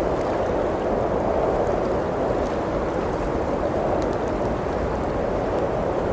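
Blizzard wind blowing steadily, swelling and easing slowly, with a few faint crackles from a wood fire.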